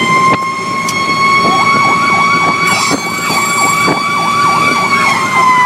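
Fire engine sirens on an emergency run: one siren holds a high, steady wail whose pitch starts to fall near the end, while a second siren yelps in quick rising-and-falling sweeps, about three a second, from about a second and a half in.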